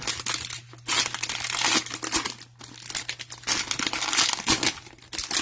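Cellophane wrapper of a trading-card cello pack crinkling and tearing as it is pulled open, in two long bouts, over a faint steady low hum.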